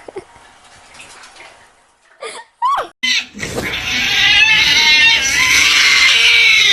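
A cat calling: two short meows about two seconds in, then a loud, long, wavering yowl that lasts almost to the end.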